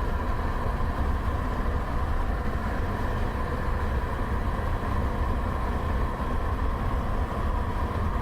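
Steady low rumble of a car driving along a highway: road, tyre and engine noise, with a faint steady whine over it.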